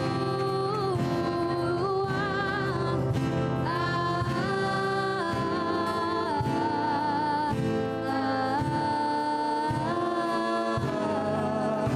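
Several voices singing a slow gospel worship song in harmony, holding long notes with vibrato.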